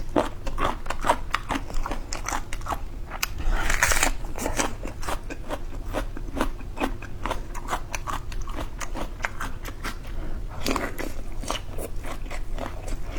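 Close-miked chewing of boneless chicken feet: a rapid, irregular run of wet crunches and bites.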